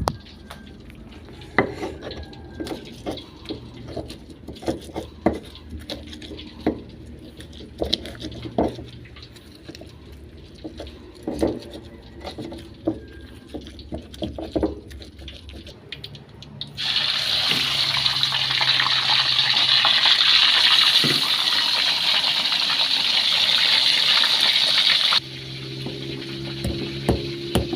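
Kitchen tap running. Light knocks and clinks come first, then the tap runs hard into the sink for about eight seconds and is turned off suddenly.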